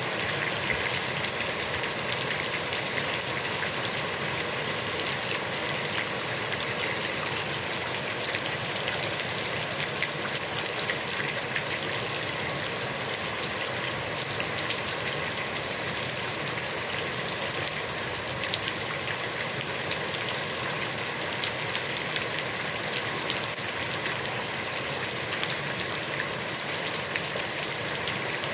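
Heavy rain falling steadily on a pond's water surface, a dense even hiss flecked with the patter of individual drops.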